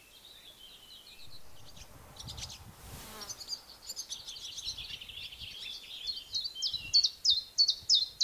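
Small birds chirping and singing in a quick, high run of notes that grows louder, ending in a string of loud, sharp repeated calls about three a second near the end. A short rush of noise comes about three seconds in.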